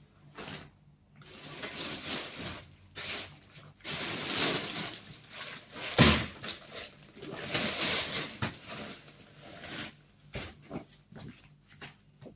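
Rough rubbing and rustling in irregular strokes, typical of scrubbing or sweeping during cleaning, with one sharp knock about six seconds in.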